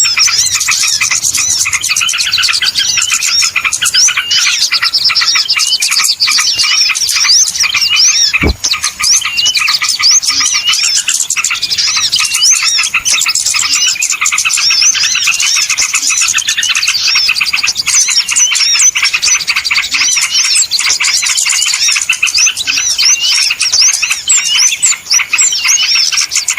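A dense, unbroken chorus of many small songbirds chirping and twittering over one another, high-pitched and busy: a small-bird lure recording. A brief low thump cuts in about eight seconds in.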